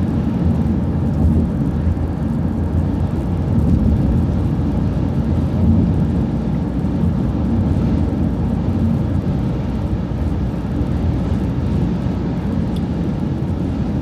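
City transit bus cruising at a steady speed: a steady low drone of engine and road noise heard from inside the bus.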